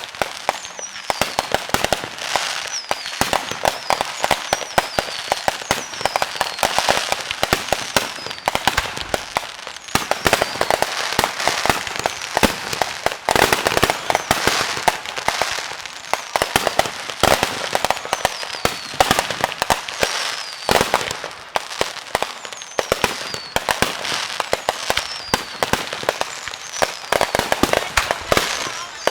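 A fireworks display going off in a dense, continuous barrage of bangs and crackling, with short falling whistles repeating about once a second.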